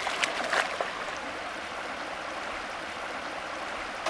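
A stream flowing steadily, a continuous rushing of water, with a couple of small splashes in the first second.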